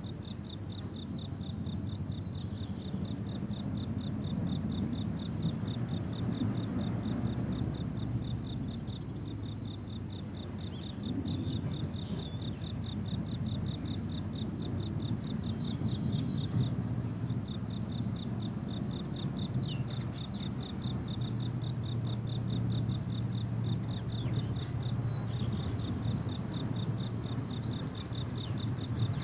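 Several crickets chirping together in a continuous chorus of fast, high-pitched pulsing trills, over a low background rumble.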